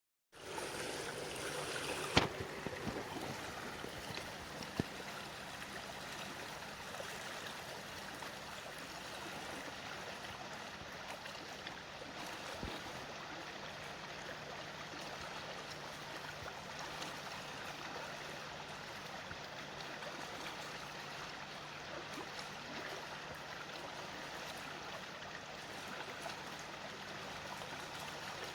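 A stream of water flowing steadily. There is a sharp click about two seconds in and a smaller one near five seconds.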